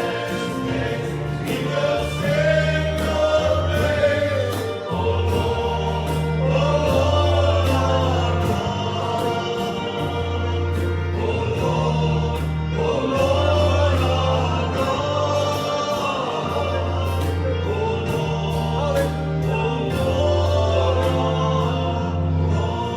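Church worship song: a group of voices singing together over a band with sustained bass notes and a steady beat.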